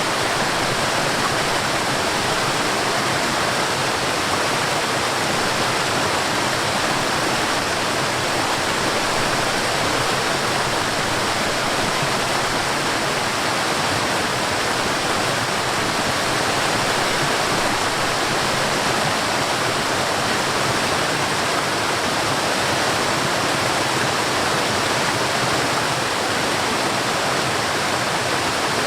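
Forest waterfall: a steady, dense rush of falling water with no breaks or changes.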